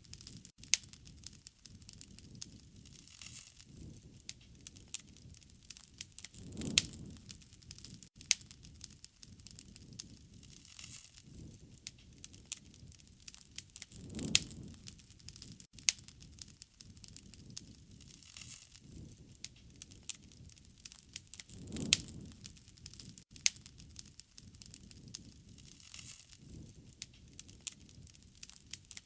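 Wood fire crackling, with frequent sharp pops and snaps over a soft hiss, and a low whoosh of flame about every seven to eight seconds.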